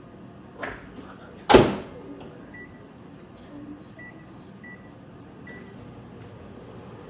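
Microwave oven door shut with a bang about a second and a half in, then four short keypad beeps as the time is set, and the oven starts running with a faint steady hum, melting butter.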